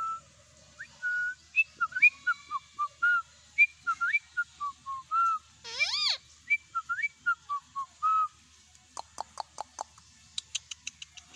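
Ringneck parrot whistling a string of short chirping notes at changing pitches, with one loud harsh call about six seconds in, then a quick run of about a dozen clicks near the end.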